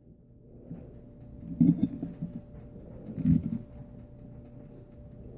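Close-up chewing and mouth sounds of someone eating salad, with two louder chewing noises about a second and a half apart, over a faint steady hum.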